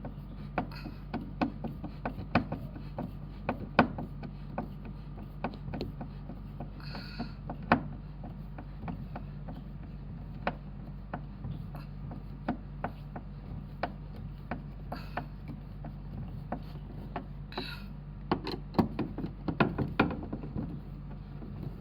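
Irregular sharp clicks and knocks, a few of them much louder, over a steady low hum, with a few short hissing bursts.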